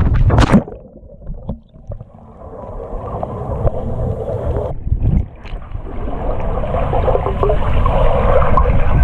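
A splash into a swimming pool about half a second in, followed by muffled underwater water noise and bubbling that grows slowly louder, with a short break about five seconds in.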